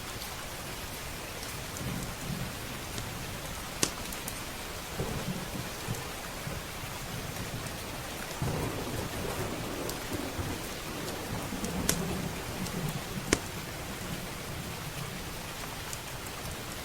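Steady heavy rain with thunder rumbling, swelling about halfway through and rolling on for several seconds. A few sharp crackles, like a wood fire popping, stand out above it.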